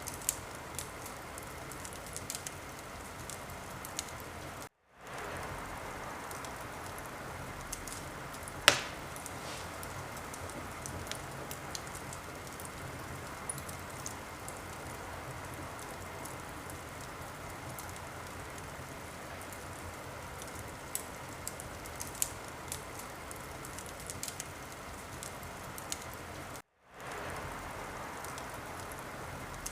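Wood fire crackling: a steady hiss with scattered small pops and one loud pop about nine seconds in. The sound drops out completely for a moment twice.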